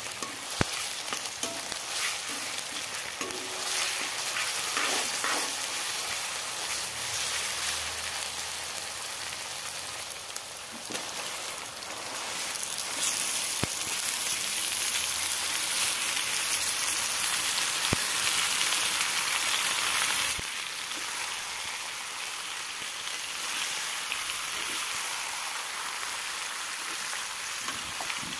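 Onions and ginger-garlic paste sizzling in hot oil in a steel wok, with a metal spoon clicking and scraping against the pan as it is stirred. About halfway through, the sizzle gets louder as raw chicken pieces go into the pan.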